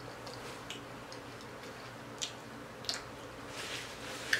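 Someone chewing food close to the microphone: a few soft, wet mouth clicks spaced irregularly, a second or so apart.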